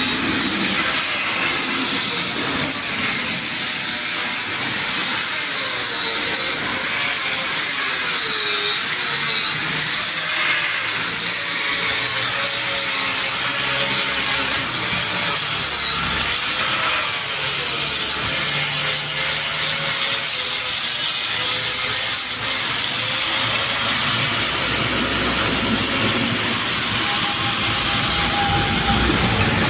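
Electric power tool working steel, running continuously with a whine that repeatedly dips in pitch and recovers as it comes under load.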